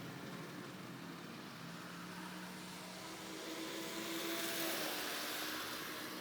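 N scale model train running, a small electric motor whirring with a hiss that swells as it passes close, about four to five seconds in, then fades. A steady low hum sits beneath it.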